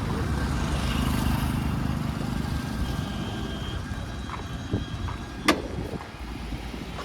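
Road traffic: a motor vehicle's engine rumbling past, loudest in the first two seconds and then fading, with a single sharp click about five and a half seconds in.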